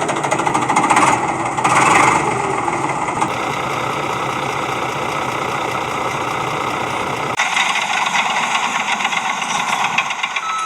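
Rattling engine noise running steadily, with a fast even clatter; about seven seconds in it changes abruptly to a thinner, higher rattle with the low rumble gone.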